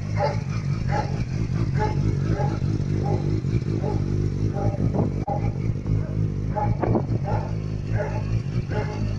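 Yamaha R6 (RJ15) inline-four engine idling steadily. A dog barks over and over throughout.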